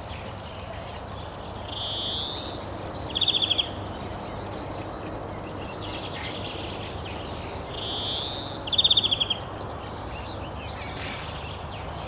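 Birdsong. One bird twice repeats a phrase, about six seconds apart: a rising note followed by a fast trill. Fainter chirps and a steady outdoor hiss fill the gaps.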